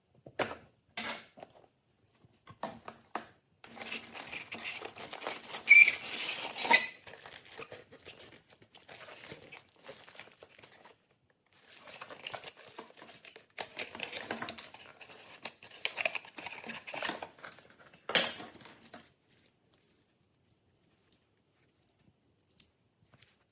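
Packaging being handled and opened: crinkling, tearing and rustling with sharp clicks and knocks, in two spells, the loudest clicks about six to seven seconds in.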